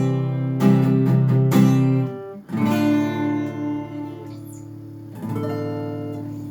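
Guitar playing the closing chords of a piece: a few quick strummed strokes, then two chords each left to ring, the last one fading out.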